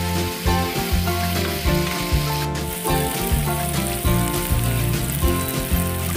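Curry sizzling and frying in a pan as it is stirred, under background instrumental music.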